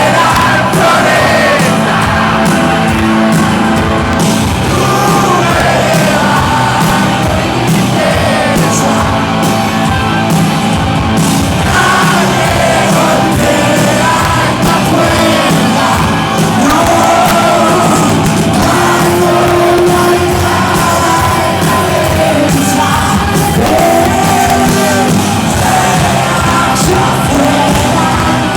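Live band playing a groove, with a voice singing over it.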